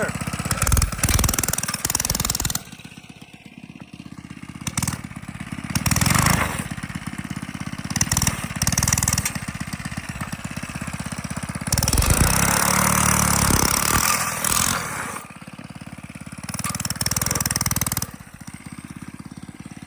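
Mini bike's small single-cylinder engine running, revved up several times and dropping back between the revs. The longest rev comes about two-thirds of the way through.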